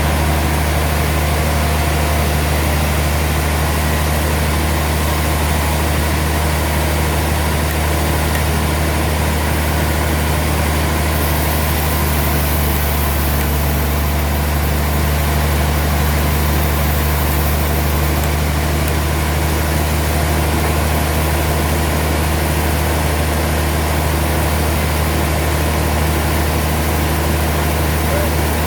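Sawmill machinery running with a steady, unchanging low drone.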